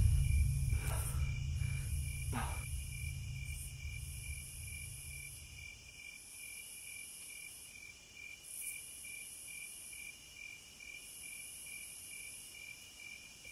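Crickets and other insects chirping steadily in a night chorus, with a fast even pulsing trill, while a low music drone fades out over the first several seconds.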